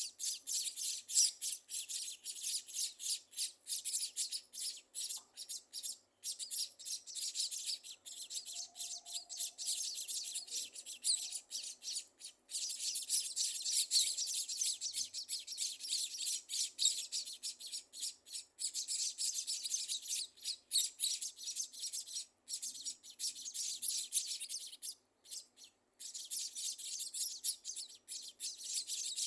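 Dense, high-pitched chirping of small birds, going on almost without a break, with a few short pauses.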